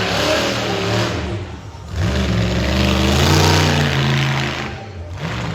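Monster truck engine revving hard, easing off about a second and a half in, then revving up again for a couple of seconds and dropping back near the end.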